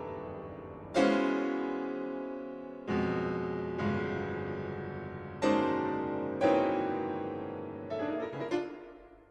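Slow solo piano music: chords struck every second or two, each left to ring and die away, fading out near the end.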